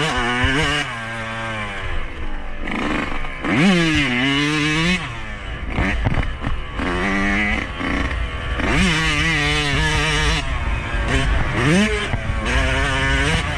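Yamaha YZ125 two-stroke single-cylinder engine being ridden hard, its pitch climbing sharply as it revs up and then dropping again, over and over.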